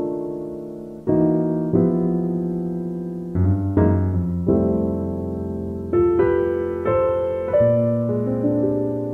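Background piano music: soft chords and melody notes, each struck and left to die away.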